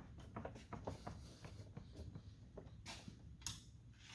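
Faint clicks and light scraping of a screw being driven by hand into a car door panel, with two brief hissy scrapes about three seconds in.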